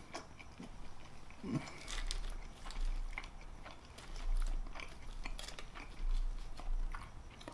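Close-miked chewing of a mouthful of pizza fries, with irregular small clicks as a plastic fork picks through the fries on a sheet of aluminium foil.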